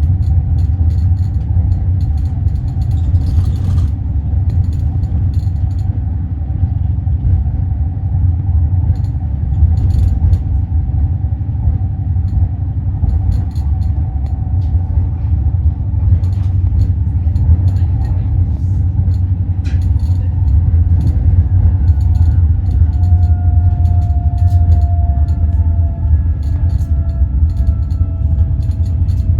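Roslagsbanan narrow-gauge electric train running: a steady low rumble with scattered clicks, and a whine that falls slowly in pitch over the last few seconds.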